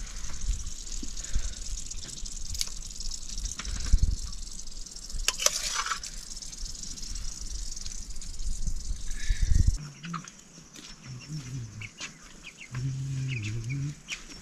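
Food frying in a pan, a steady sizzle with scattered clicks, for about ten seconds. Then the sizzle cuts off suddenly and a few low animal calls follow near the end.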